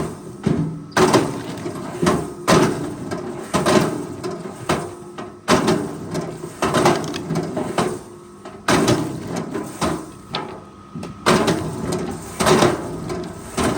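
Logs knocking and creaking against each other in irregular, repeated knocks about every second or so, over a steady low machine hum.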